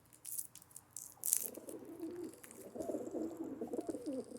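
A pigeon cooing: a low, wavering coo that starts about a second and a half in and carries on in a string of phrases. A few short rustling clicks come before it.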